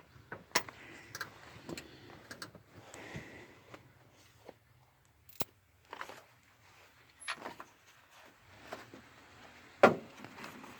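Scattered metallic clicks and clinks of hand tools and small metal parts, such as bolts and washers, being handled, with one louder knock near the end.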